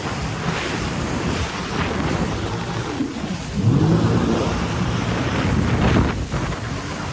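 Jet ski under way: water rushing and splashing under the hull, with wind buffeting the microphone and the engine note rising and falling a few seconds in.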